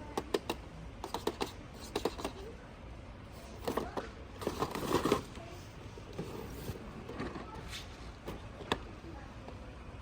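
Toy cars being handled: irregular small clicks and taps, with a denser stretch of rustling and scraping about halfway through.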